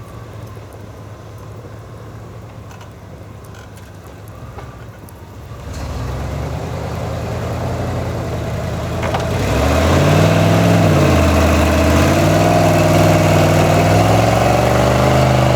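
1995 GMC K2500 pickup engine running quietly, then revving louder about six seconds in. From about ten seconds it works hard as it pulls a stuck vehicle through snow, its pitch rising and falling repeatedly.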